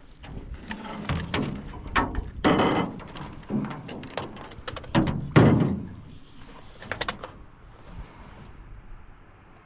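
Hollow knocks and thuds against a canoe hull, mixed with swishing noise. There are several over a few seconds, the loudest about halfway through, and it settles quieter near the end.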